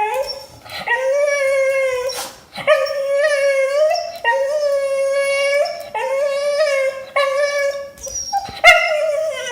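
A Basenji–Jindo mix dog howling in a string of about seven drawn-out, wavering calls, vocalizing on cue while learning the Speak command.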